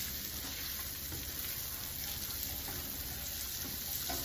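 Sliced baby bella mushrooms sizzling steadily in oil in a stainless steel skillet, stirred with a spatula.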